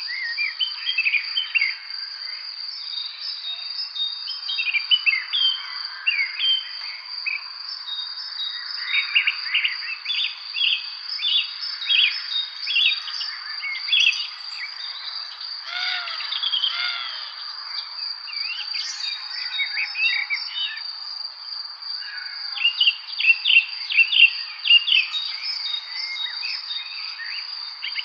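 A chorus of birds chirping and singing in many short, overlapping notes, over a steady high-pitched insect trill.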